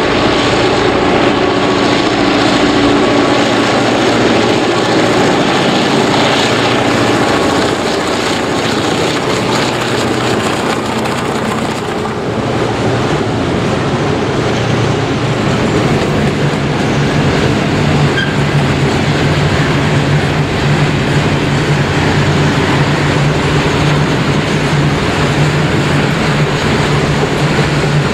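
Roots-blown EMD diesel locomotives running past, followed by the steady rumble and clatter of a long rake of grain hopper wagons rolling by.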